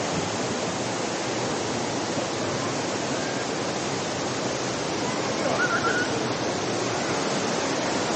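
Steady rush of falling water from a waterfall, with a brief faint high chirp about five and a half seconds in.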